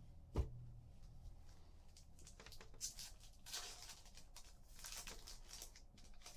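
Trading cards and pack wrappers being handled on a table: a single soft thump about half a second in, then several brief sliding and rustling sounds as cards are flipped through.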